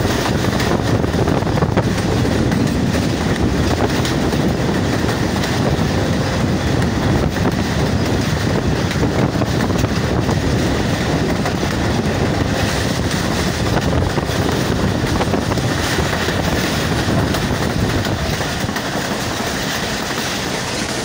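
Rehman Baba Express passenger coach running at speed, heard from its open doorway: a steady, loud rumble of wheels on the rails with a constant clatter.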